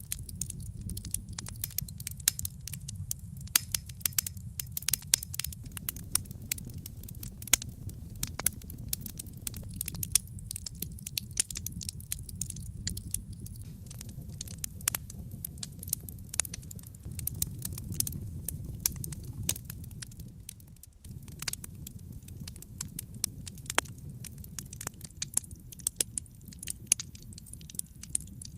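Wood fire in a fireplace crackling and popping, with many irregular sharp snaps over a steady low rumble.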